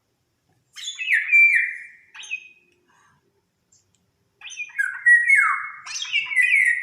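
Bird calls in two bouts of notes that slide downward in pitch. The first bout comes about a second in with a short extra note just after it, and the second starts at about four and a half seconds and runs to the end.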